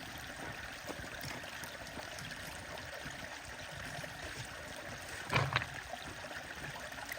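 Stream water rushing and trickling steadily, with one short louder thud about five seconds in.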